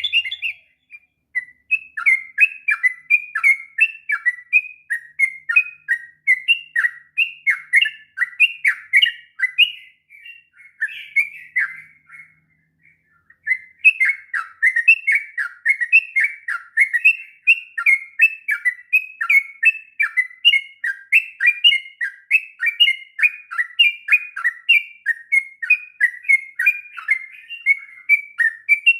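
Sooty-headed bulbul (trucuk) singing a long, rapid, unbroken run of chirping notes, with a pause of about a second and a half near the middle.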